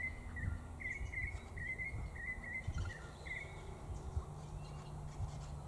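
A bird chirping over and over in short, wavering notes that stop a little over three seconds in, over a steady low outdoor rumble.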